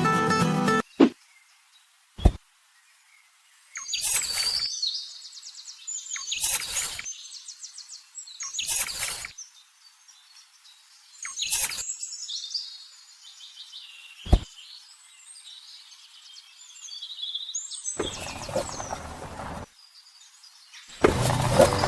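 Birds chirping and twittering. They are broken by several short bursts of noise and three sharp clicks. Music cuts off about a second in and comes back near the end.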